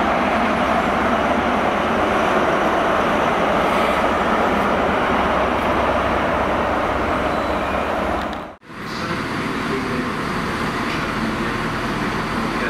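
A GWR High Speed Train with a Class 43 diesel power car running past through the station: a steady engine and wheel noise. About eight and a half seconds in it cuts off abruptly, and a quieter, lower steady train hum follows as another train approaches.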